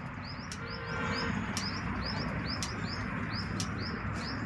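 A bird chirping over and over, a short arched high note about three times a second, with sharp ticks about once a second, over a steady low hum.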